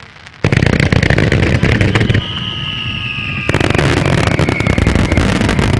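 Star mine fireworks barrage: a sudden dense volley of rapid bangs and crackles about half a second in, easing after about two seconds, then a second dense volley from about three and a half seconds. A high whistle slides slowly down in pitch through the middle.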